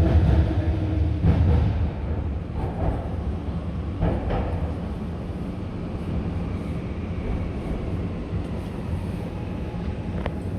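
Xi'an Metro Line 6 subway train running: a steady rumble of wheels and running gear, louder for the first two seconds, then settling quieter.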